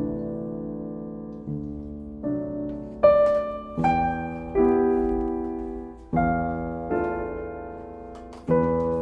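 Slow, soft background piano music: sustained chords struck about once a second, each fading before the next.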